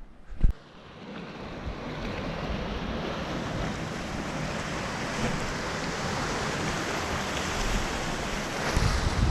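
Steady wash of ocean surf with wind, after a sharp click about half a second in. Near the end, wind buffets the microphone with a low rumble.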